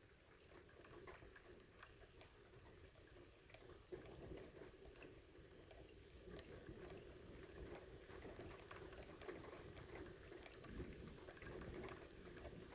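Very faint, steady rain falling in a thunderstorm, with scattered light ticks of drops.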